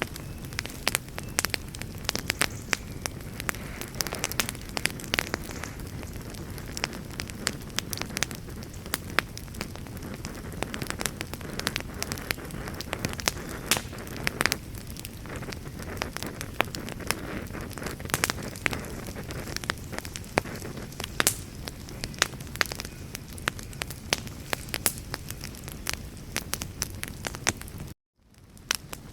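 Wood campfire burning with a steady low rush and frequent irregular sharp crackles and pops. Near the end the sound cuts out for a moment and fades back in.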